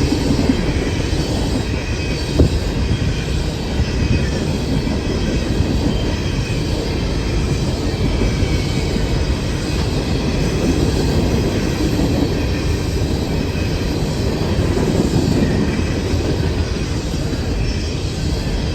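Freight cars of a coal train rolling steadily past, wheels rumbling on the rails with a faint high squeal, and a single sharp clack about two and a half seconds in.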